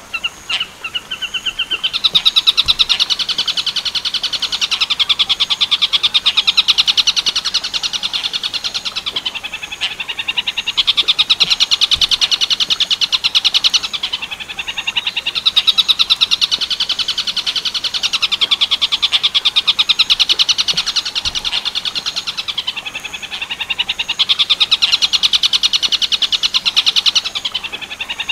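A bird singing the 'tengkek buto' song: after a few short notes it starts, about two seconds in, a long, loud chattering trill of very rapid repeated notes that wavers up and down in pitch and eases off briefly a few times.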